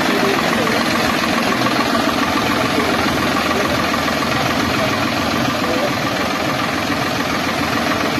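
Deutz-Fahr tractor's diesel engine running steadily.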